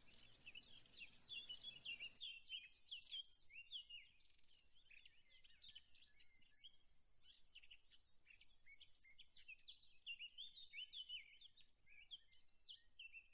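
Faint nature soundscape of many small birds chirping, over a high, steady insect drone that swells and fades twice.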